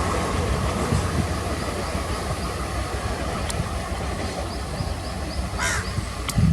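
Kalinga Utkal Express passenger train running on the track: a steady rumble that eases off slightly. A brief high-pitched squeak comes about five and a half seconds in.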